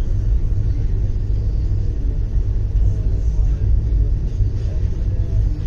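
Steady low rumble of a moving passenger train, heard from inside the carriage by an open window.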